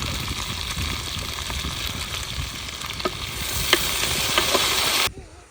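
Food sizzling as it fries in a pan, a steady crackling hiss with a few sharp clicks, growing brighter about three seconds in and cutting off suddenly near the end.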